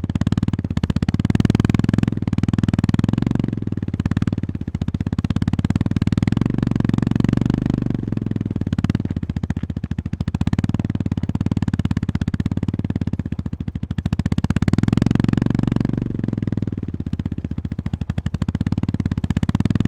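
Honda GB350S's air-cooled single-cylinder engine running under way, with a steady beat of firing pulses that swells and eases with the throttle every few seconds.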